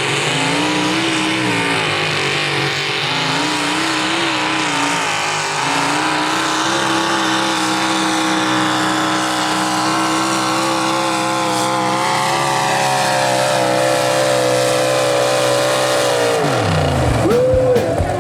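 Mini rod tractor puller's engine screaming at very high revs through a pull. Its pitch wavers over the first few seconds, then holds high and steady, then falls away sharply near the end.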